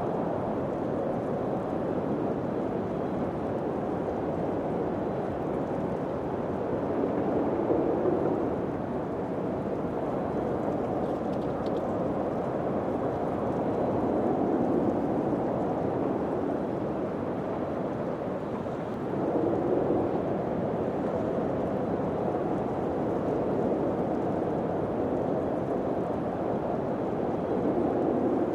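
Steady rushing wind that swells into gusts several times.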